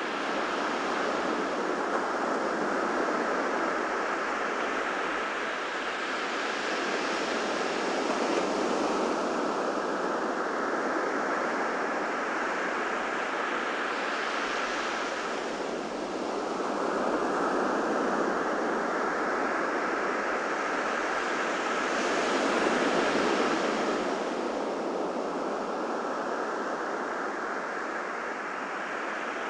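Ocean surf on a beach: a steady wash with a wave breaking about every seven to eight seconds, each break followed by a hiss that slowly fades.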